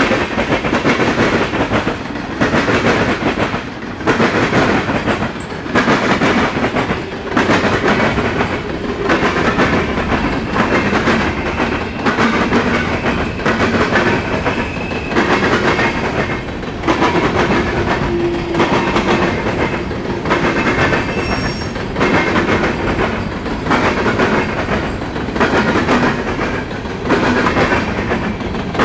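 Freight train cars rolling past, wheels clattering over rail joints in a steady rhythm that swells and dips about every second and a half as each car goes by, with some metallic squeal and ringing from the cars.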